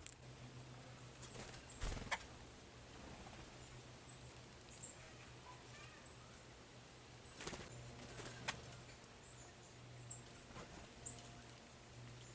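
Birds at a seed feeder: scattered sharp taps and knocks of beaks and feet on the feeder, with a few faint, very short high chirps, over a low steady hum.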